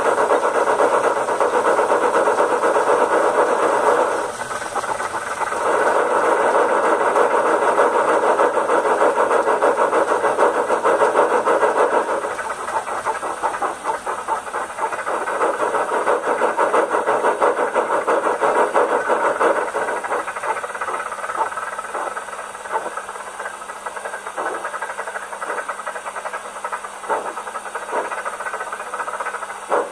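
Steam-locomotive sound from the trial sound decoder of a Rivarossi H0 Big Boy model, through its small built-in speaker: rapid chuffing with hiss, which about twelve seconds in grows quieter and slows into separate chuffs near the end.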